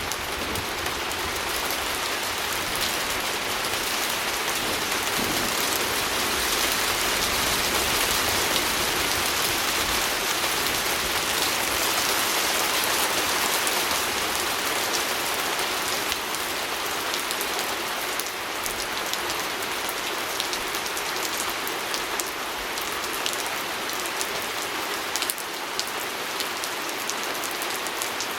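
Steady heavy rain pattering on a window pane: a dense, even hiss of drops that swells a little in the middle and eases slightly later, with scattered sharper drop ticks.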